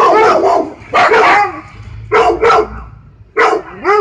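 A dog barking in short bursts of two or three barks, about six barks in all, with brief pauses between the groups.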